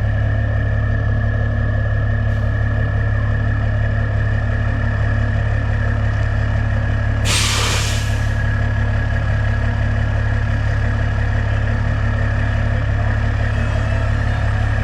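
Semi truck engine running steadily with a low hum, and a sharp hiss of released air, like an air brake, about seven seconds in, lasting about a second.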